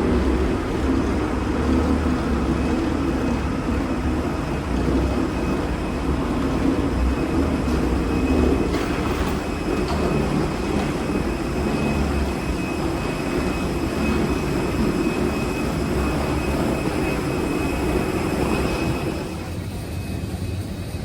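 Steady rumble and rattle of a moving vehicle heard from inside, easing slightly near the end.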